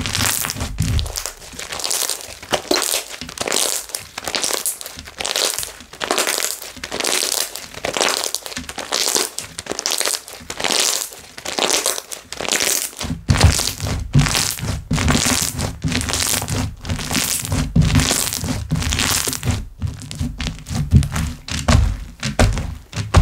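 Hands squishing, stretching and pressing slime, giving repeated sticky crackles and bubble pops about twice a second. Low thuds join in about halfway through.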